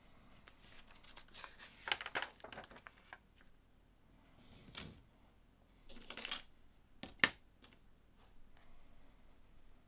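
Small plastic LEGO pieces clicking and rattling as they are handled during building, in a few bursts, with one sharp, loudest click about seven seconds in.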